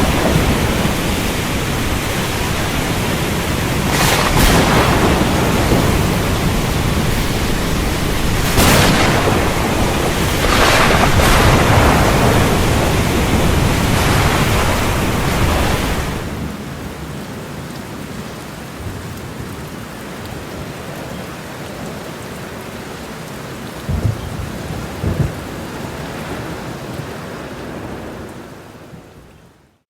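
Thunderstorm with heavy rain: a steady downpour broken by several sharp thunderclaps in the first half. About halfway through it drops suddenly to softer rain with two brief low rumbles, then fades out at the end.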